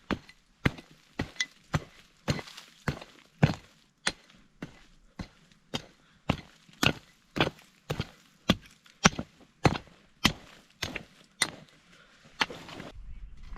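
Repeated chopping blows of a blade into wood, about two strikes a second at an uneven pace, stopping near the end.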